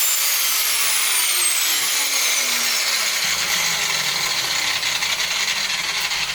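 Power tool cutting through 3D-printed plastic with a steady grinding hiss, its motor pitch sliding down over the first few seconds as it takes the load.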